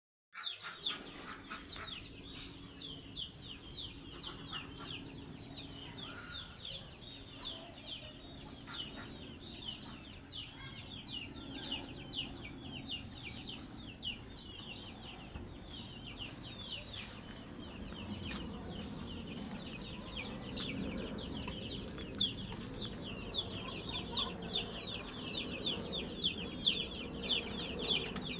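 A brood of baby fowl peeping without pause: a dense chorus of short, high, falling cheeps, several every second.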